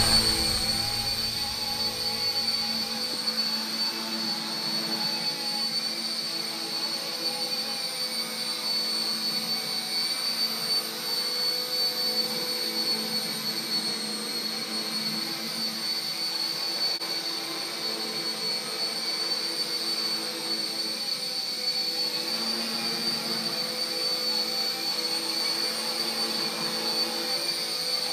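RC Era C032 UH-1 Huey RC helicopter in flight: the steady, high-pitched whine of its small electric motors and spinning rotor blades, rising and falling slightly in pitch as it manoeuvres.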